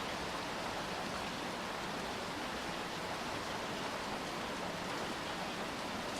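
Steady rainfall, an even hiss of rain falling on outdoor surfaces with no distinct drips or other events.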